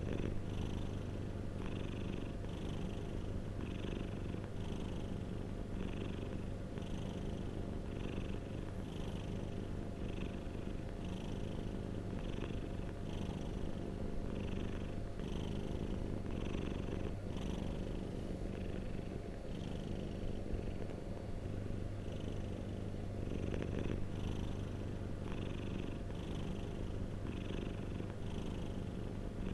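Domestic cat purring steadily, a continuous low rumble that swells in a soft rhythm about once a second.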